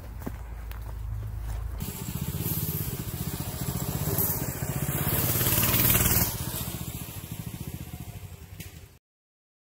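Minibike engine running: a low rumble that changes abruptly about two seconds in to a pulsing engine note, which grows louder until about six seconds, then eases off and cuts out suddenly near the end.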